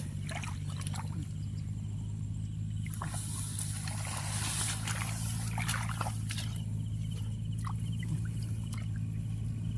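Shallow muddy water splashing and trickling in irregular bursts, heaviest in the middle, over a steady low engine hum.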